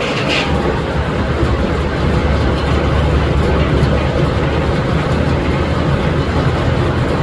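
Steam-engine-powered sawmill machinery running with a steady, heavy low rumble. A higher-pitched sound fades out about half a second in.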